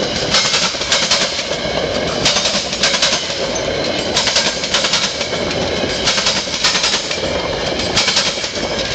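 Metra commuter train cars rolling past at speed: a steady rumble of wheels on rail, with wheel sets clacking over rail joints in quick pairs every second or two.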